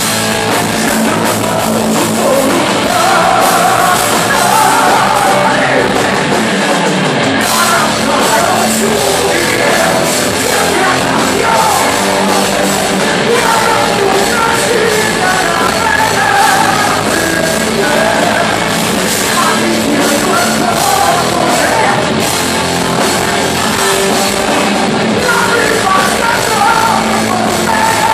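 Loud live rock band playing heavy metal, with distorted guitars, drums and a singer's voice on top.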